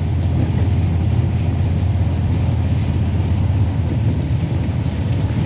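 Car driving on a rain-soaked road: a steady low rumble of engine and tyre noise.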